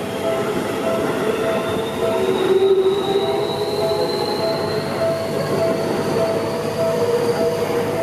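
Seibu Ikebukuro Line electric commuter train running past at close range, its wheels rumbling on the rails while a motor whine climbs slowly in pitch as the train picks up speed. An evenly repeating ding carries on behind it throughout.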